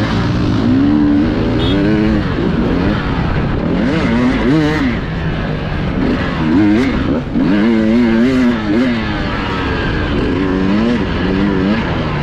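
Enduro dirt bike engine revving up and down over and over under throttle, heard close from the rider's onboard camera as he races over rough terrain.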